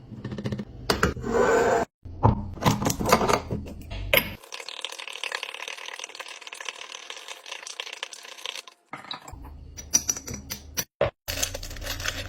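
Clicks, taps and rattles of kitchen containers and items being handled, in short clips that cut off suddenly several times.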